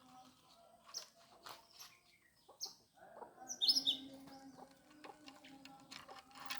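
A bird calling: one short high chirp about two and a half seconds in, then a quick run of several high chirps around four seconds in, with scattered small clicks and a faint steady hum underneath.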